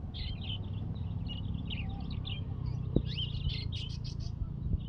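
Many small caged birds chirping and trilling at once in a dense, overlapping chorus, over a steady low background rumble, with one sharp knock about three seconds in.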